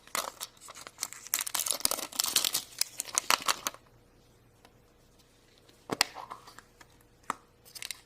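Surprise toy's wrapper being torn open and crinkled by hand. There is dense crinkling for about the first three and a half seconds, then brief rustles about six seconds in and again near the end.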